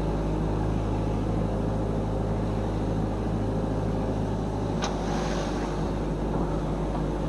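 Car engine and road noise from inside a moving car's cabin: a steady low hum, with a single sharp click a little under five seconds in.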